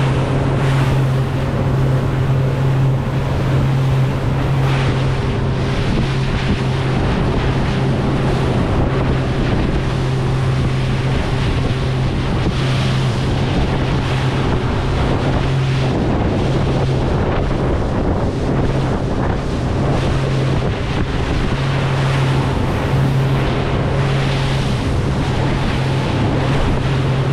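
Key West 176CC center-console boat's outboard motor running at a steady cruising pitch with a low, even hum, under heavy wind buffeting the microphone and rushing water from the hull in choppy seas.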